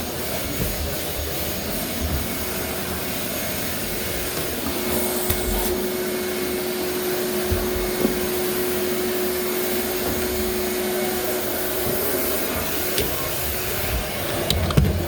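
A vacuum cleaner running steadily, with a steady hum in its note for several seconds and a few sharp knocks on top.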